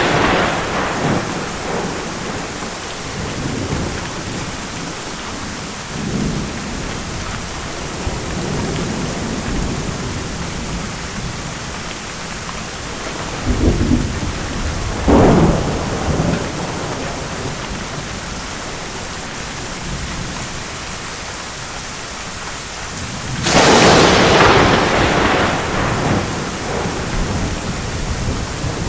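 Thunderstorm: steady heavy rain with thunder throughout. A thunderclap fades out at the start, low rumbles roll about a third of the way in, a sharper crack comes about halfway, and a loud crack near the end rolls off over a few seconds.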